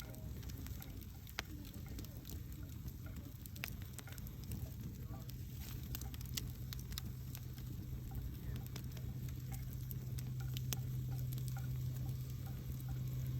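Wood campfire crackling, with irregular sharp pops and snaps over a low rumble of burning. A steady low hum grows louder about halfway through.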